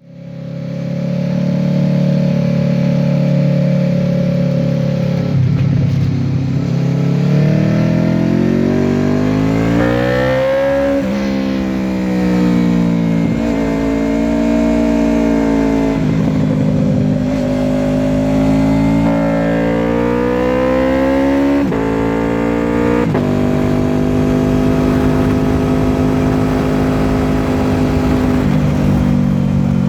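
Honda VFR800F's V4 VTEC engine with an SC-Project exhaust, under way. Its note is steady at first, then the revs climb and drop sharply several times between about seven and twenty-three seconds in, before holding steady near the end.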